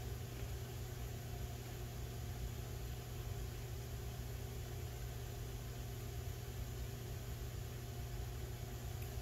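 Air conditioning unit running with a steady hum and hiss.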